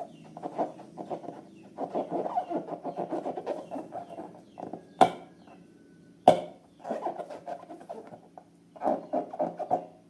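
Rubber balloons squeaking in quick runs as they are handled. Two sharp snaps come about five seconds in and again a second later.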